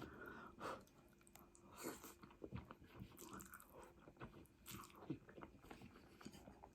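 Faint chewing and biting sounds of a person eating: irregular soft mouth clicks and smacks.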